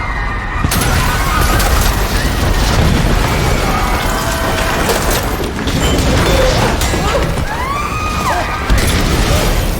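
Film sound design of an earthquake: a continuous deep rumble with repeated crashing, breaking and shattering impacts of collapsing debris.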